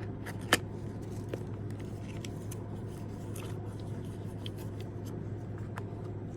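Light handling of small items from a nail-polish subscription box: a sharp click about half a second in and a few faint ticks, over a steady low hum.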